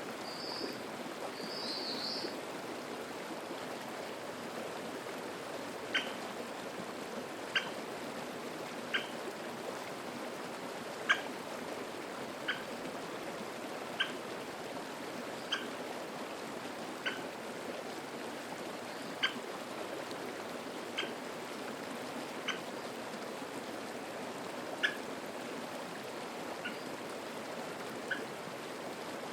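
Mountain stream flowing steadily over rocks. In the first couple of seconds a bird gives short warbling calls, then from about six seconds in a short sharp call repeats roughly every one and a half seconds.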